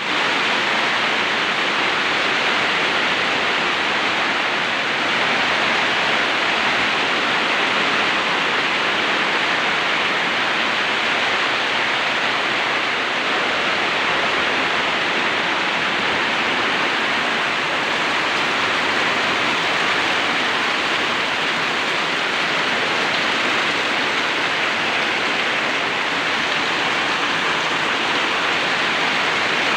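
Heavy rain and rainwater pouring, a steady, unbroken rush of water.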